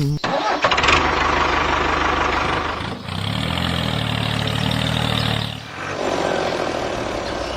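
Engine running steadily, in three spells with short dips between them: a run with a fast even ticking, then a lower, more pitched spell a few seconds in, then another near the end.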